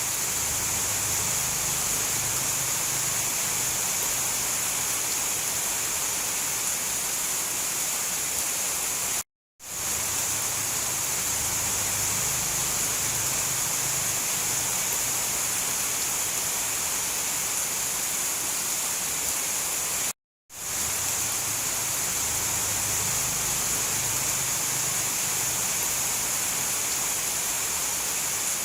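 Steady heavy rain, an even hiss with a strong high band, cut twice by a split-second gap of silence that fades back in.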